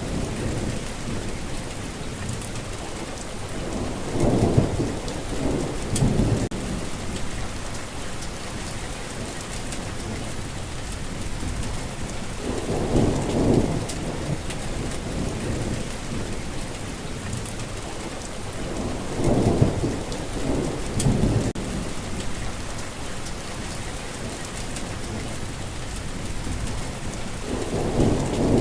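Steady heavy rain, with low rolls of thunder rumbling up every seven or eight seconds, four times.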